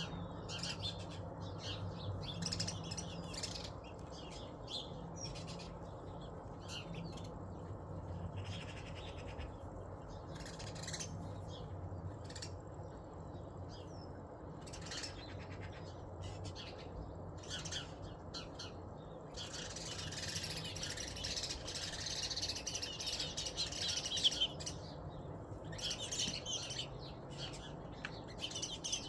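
Birds chirping and calling in short, repeated notes, thickening into dense chatter about twenty seconds in, over a low steady hum.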